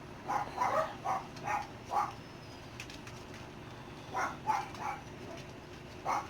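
Six-week-old dachshund puppies yipping and crying in short bursts during rough play: a quick run of about six cries in the first two seconds, three more about four seconds in, and one near the end.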